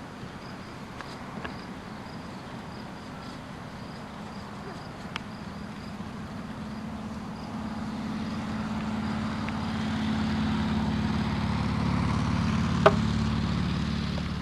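A vehicle engine hums, growing steadily louder over several seconds as it approaches and holding near its loudest toward the end. A single sharp click sounds a second or so before the end.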